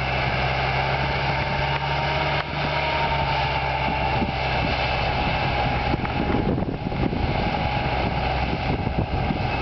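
Massey Ferguson 5455 tractor's diesel engine running steadily while pulling a three-furrow plough, with a steady whine above the engine note.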